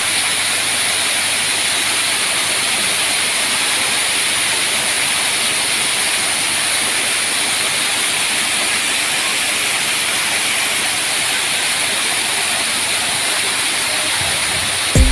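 Steady, even rushing hiss with no pitch or rhythm, heavier in the high range than the low.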